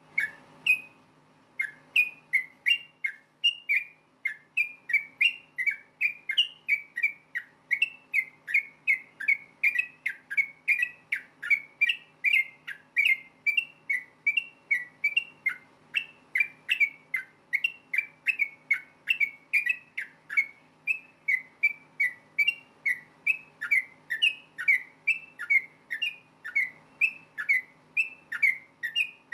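Yellow-vented bulbul (trucukan) singing a fast, unbroken string of short, bubbling whistled notes, about two to three a second, over a faint steady hum.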